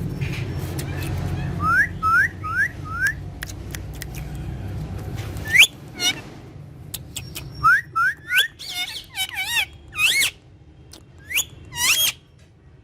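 Parrot giving short whistled calls: four quick rise-and-fall whistles about two seconds in, then a louder, more varied run of warbling whistles from about eight seconds in. A low rumble sits under the first half and stops midway.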